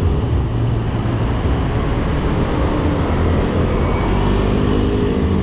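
Road traffic at a junction: motor vehicle engines running close by over a steady low rumble, with one engine's pitched drone coming in about four seconds in.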